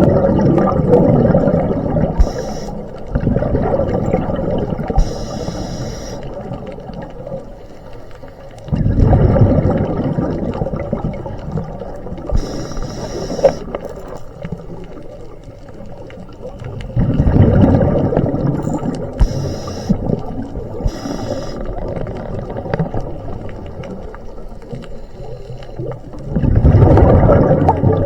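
A scuba diver breathing through a regulator underwater. Each exhalation is a loud rumbling, gurgling rush of bubbles, about every eight to nine seconds, and short hisses of the regulator on inhalation fall between them.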